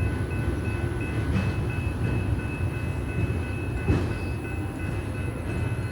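Union Pacific freight train's cars rolling past, a steady low rumble of wheels on the rails with faint high steady tones above it and two light clacks.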